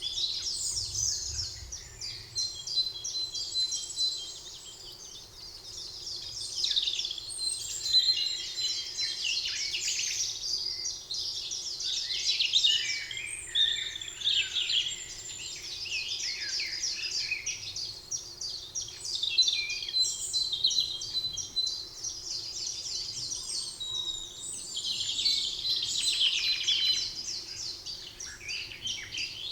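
Several songbirds singing at once in a spring forest, with fast overlapping chirps and trills running on without a break.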